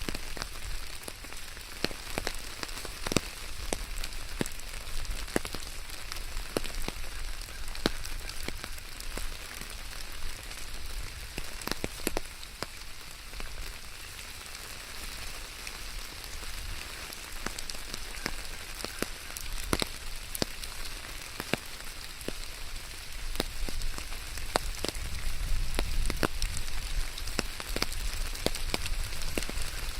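Steady rain falling, with many scattered individual drops ticking sharply on a nearby surface. A low rumble underneath grows louder in the last few seconds.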